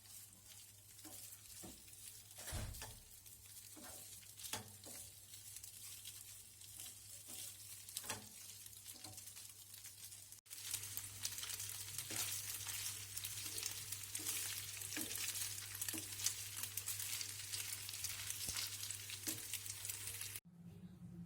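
Food sizzling in hot oil in a pan, with light taps and scrapes of a utensil turning it. The sizzle is louder after a cut about halfway through.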